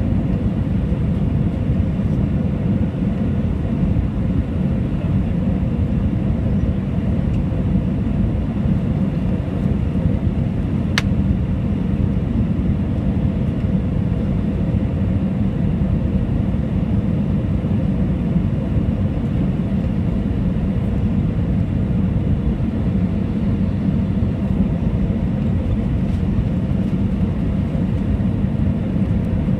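Steady rumble of an Airbus A320's engines and airflow heard from inside the passenger cabin, with one sharp click about eleven seconds in.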